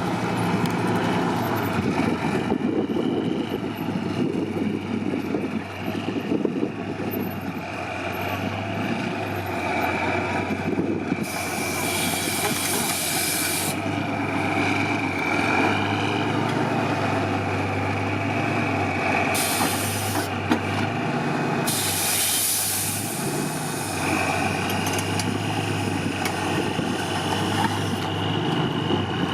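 Off-road trial truck's diesel engine running at low speed, with three sharp hisses of air-brake release: a long one about a third of the way in, then a short one and another long one soon after the middle.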